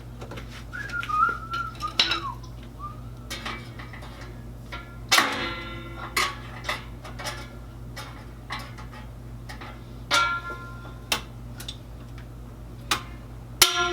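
Metal exhaust parts clinking and tapping, with scattered clicks and a few louder ringing metallic knocks, as the parts are pushed and popped into place. A short wavering whistle-like tone sounds about a second in.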